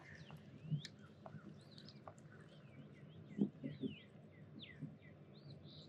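Small birds chirping, many short high whistles sweeping up and down, with a few soft low knocks a little past halfway.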